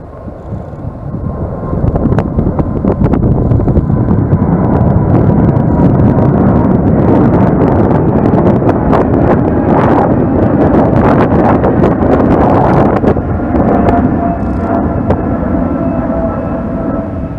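Jet airliner passing close by: the engine rush swells over the first couple of seconds, holds strong and then slowly fades, with a thin engine whine running through it.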